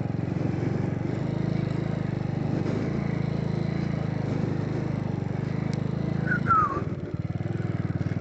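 Motorcycle engine running at a steady pace while riding, its note turning choppier about seven seconds in as the throttle eases.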